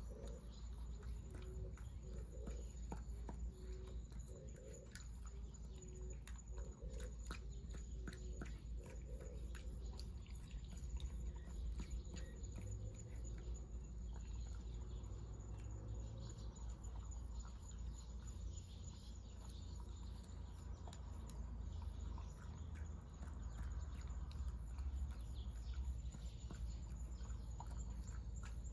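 A chorus of insects, crickets or similar, chirping in a high, even pulse over a low rumble, with scattered light ticks and taps.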